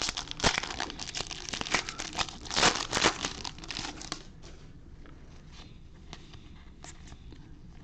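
Foil baseball card pack wrapper being torn open and crinkled for about four seconds, loudest near the middle, then fainter scattered rustling.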